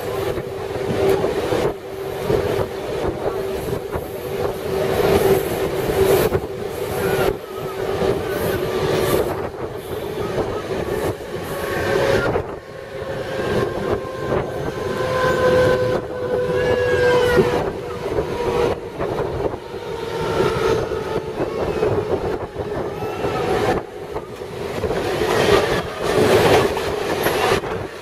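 Mumbai suburban local train running on the rails, heard from on board: a steady rolling rumble with a rhythmic clickety-clack of the wheels over rail joints. Thin high squealing tones come in about halfway through. The sound grows louder near the end as another train passes close alongside.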